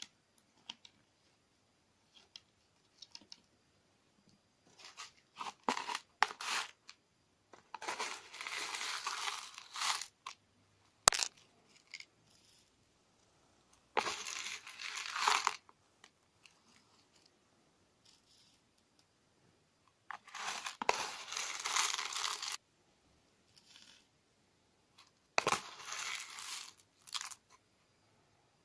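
Clear slime mixed with crunchy sand being pressed and squeezed, giving four crackling, crunching bursts of one to two seconds each, with scattered sticky clicks and pops between them.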